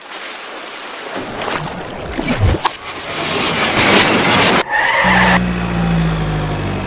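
Vehicle noise with tyre skidding, broken into abrupt edited segments, with a steady low engine hum over the last couple of seconds.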